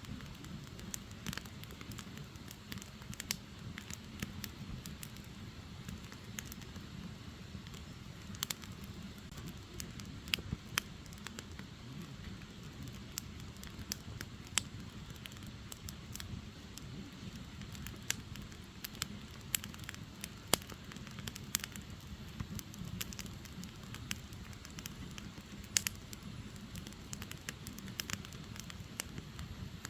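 Firewood logs burning, with irregular sharp crackles and pops over a steady low rumble.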